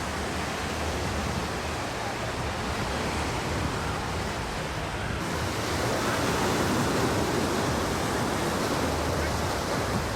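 Ocean surf washing onto the beach as a steady rush, swelling louder a little past the middle.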